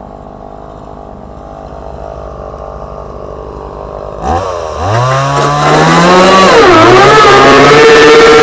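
Two-stroke chainsaw idling, then opened up about four seconds in: the engine pitch sweeps up, sags briefly as the chain bites, and holds at high revs under load while it cuts into the fiberglass boat hull.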